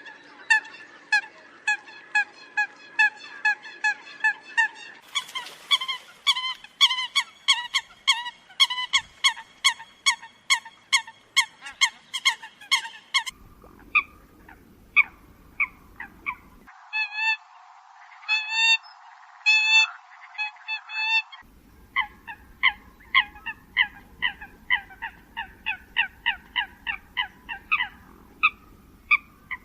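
Eurasian coot calls: a rapid series of short, sharp calls, about two to three a second. Several recordings are spliced together and cut in and out abruptly, as in a bird-lure track.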